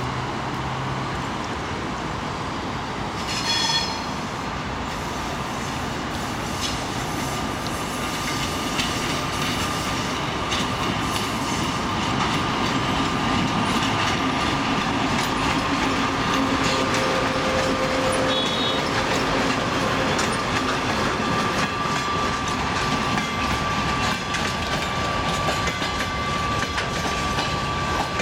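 2TE116U two-section diesel locomotive hauling a freight train past, its diesel engines running under load, with a brief high-pitched horn toot about three and a half seconds in. The rumble and clickety-clack of the freight wagons' wheels over the rail joints follow, growing a little louder as the wagons roll by.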